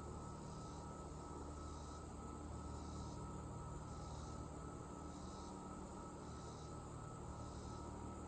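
Insects chirping in a chorus: a steady high-pitched trill with a second, pulsing chirp repeating about once a second, over a low background rumble.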